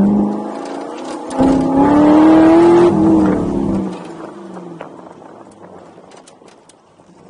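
Saturn Sky's 525-hp LS376 V8, heard from inside the cabin: a short loud burst of throttle at the start, then hard acceleration from about a second and a half in, its pitch climbing for about a second and a half. The driver lifts off near four seconds, and the engine drops to a low, fading hum as the car slows.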